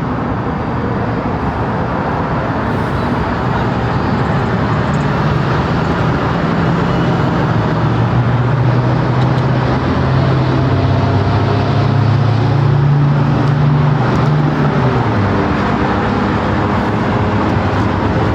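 Freeway traffic noise: a steady rush of tyre and road noise with a motor vehicle's engine hum. The hum grows stronger from about eight seconds in and falls away around fifteen seconds.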